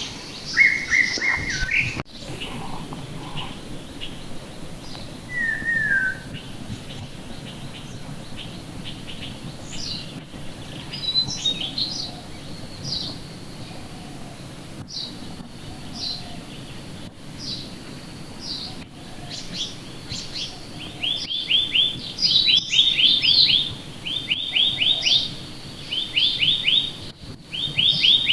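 Wild birds singing and chirping, many short high calls scattered throughout; in the last quarter one bird repeats quick, rattling trill phrases over and over.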